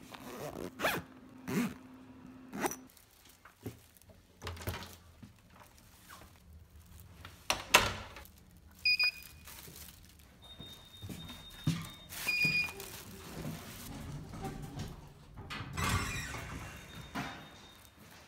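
A bag being zipped and handled, then scattered thuds and knocks. Short electronic beeps come about nine and twelve seconds in.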